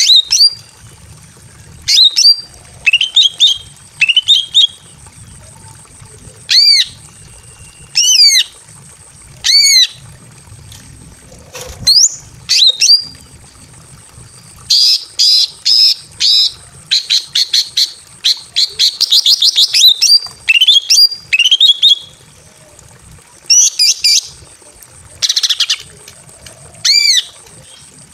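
Greater green leafbird (cucak ijo) calling: loud, sharp, arched call notes at irregular intervals, with a long run of fast rattling chatter about halfway through. It is a female in breeding condition calling for a male.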